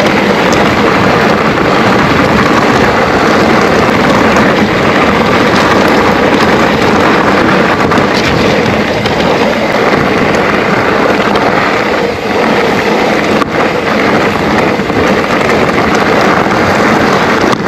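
Heavy wind noise buffeting a GoPro microphone as a Trek Rail 7 electric mountain bike speeds down a rough double-track descent, with steady tyre rumble and rattle from the trail underneath.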